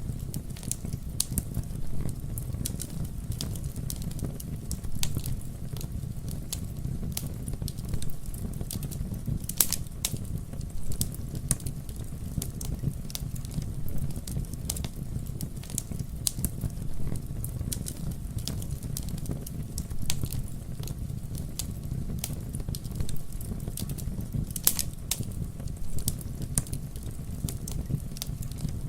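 Campfire burning, with irregular crackles and sharp pops over a steady low rumble; a couple of louder pops stand out, one about ten seconds in and one near twenty-five seconds.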